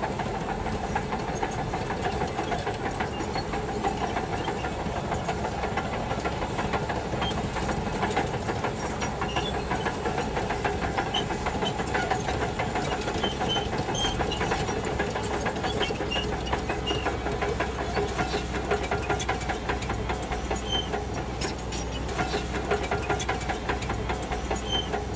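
Shantui DH17 bulldozer's diesel engine running steadily under work, with scattered metallic clicks and clanks, more of them near the end.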